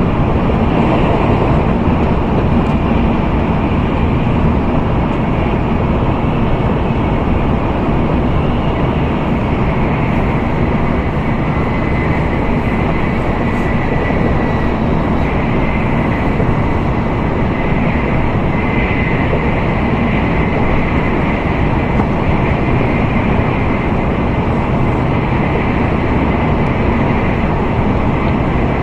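Interior running noise of an N700A Tokaido Shinkansen train at speed, heard inside the passenger cabin. It is a steady, unbroken rumble and rush with a faint high whine.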